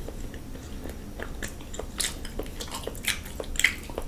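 Close-miked eating: a person chewing and smacking lips in a string of short, irregular wet clicks.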